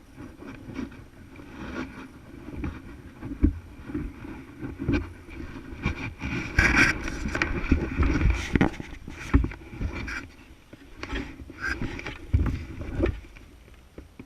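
2012 Yamaha YZ450F single-cylinder four-stroke dirt bike engine with an aftermarket exhaust, the throttle opening and closing unevenly while riding over roots, with repeated knocks and thuds from the bike. It grows louder in the middle and eases off near the end.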